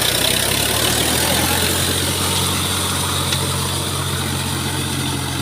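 John Deere 5310 tractor's three-cylinder diesel engine running steadily.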